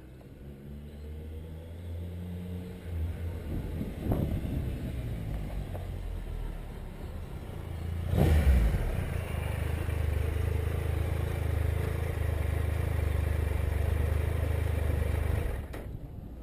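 Motorcycle engine drawing closer and growing louder, with a sudden loud surge about halfway through, then running steadily before cutting off suddenly near the end.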